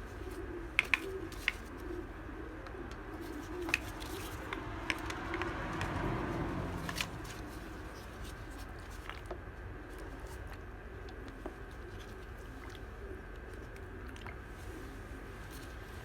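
A bird cooing softly and repeatedly, with a few sharp clicks and a brief rustling swell about six seconds in.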